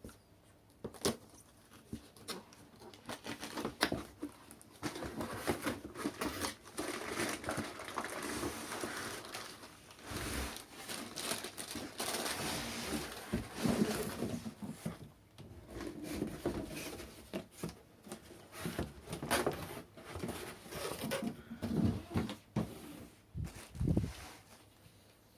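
Cardboard box and plastic packaging of a cordless vacuum cleaner being handled and opened: irregular rustling and crinkling broken by sharp knocks and taps.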